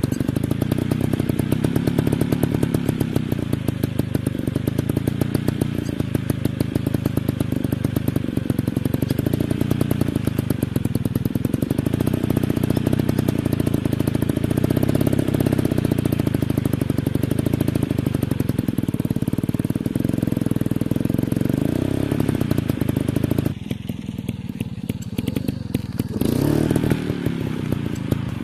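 Dirt bike engine running hard, its pitch rising and falling as the throttle is worked. It eases off about 23 seconds in and picks up again a few seconds later.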